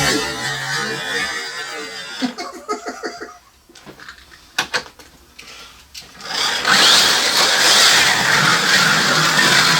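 Small electric motors of 1/43-scale slot cars whining along the track, dying away about three seconds in. A few sharp clicks follow in a quiet gap, then the motors start up again loudly about six and a half seconds in and run on steadily.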